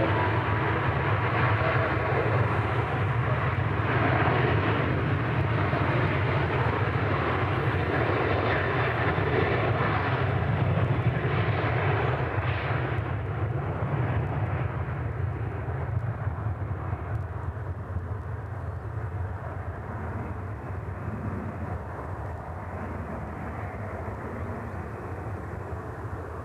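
Jet airliner engines at takeoff power, a steady loud rushing noise that gradually fades over the second half as the aircraft climbs away.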